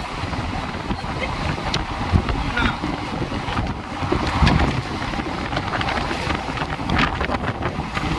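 Moving passenger train's running rumble with wind rushing over the microphone, and a few scattered knocks and rattles.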